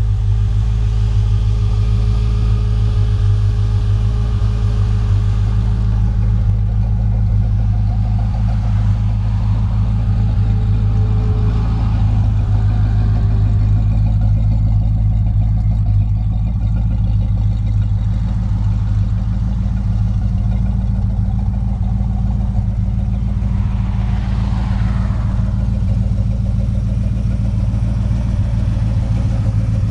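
Chevrolet 409 V8 in a 1932 Ford Roadster idling steadily with a deep, even rumble.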